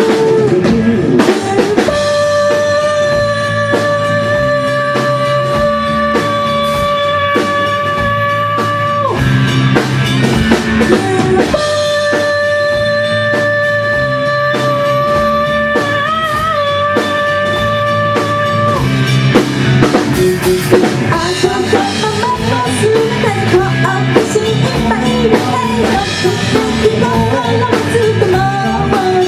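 A rock band playing live: drum kit and guitar keeping a steady beat, with two long held notes over it, the second bent and wavering, then a busier melody in the last third.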